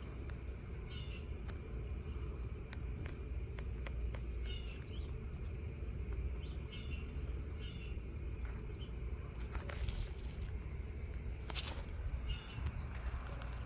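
Short bird chirps repeating every second or two over a steady low city rumble, with scattered clicks and two brief louder rushes of noise about ten and eleven and a half seconds in.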